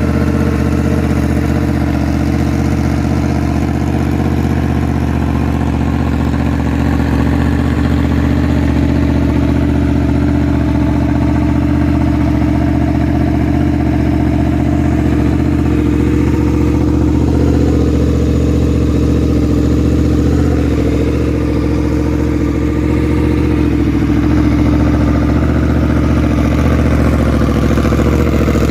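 Sport-bike inline-four engine idling steadily through an aftermarket exhaust. Its note shifts slightly a little past halfway.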